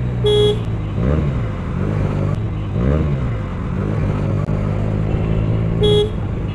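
Benelli TNT 300 parallel-twin motorcycle engine running under way, its revs dipping and climbing again twice, about one and three seconds in. Two short, identical beeps sound, one just after the start and one near the end.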